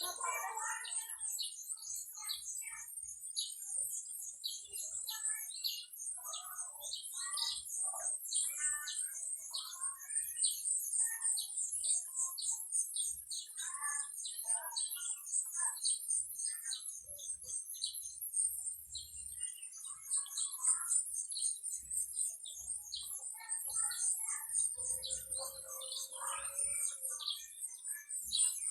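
Chorus of wild birds chirping and twittering, with many short calls overlapping and a dense, rapid high-pitched trill that runs steadily underneath. Near the end one lower note is held for about two seconds.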